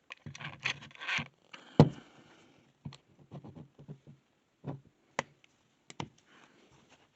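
Handling noise: a string of separate clicks and knocks with short scrapes and rubs between them, the loudest a sharp knock about two seconds in. No motor is running.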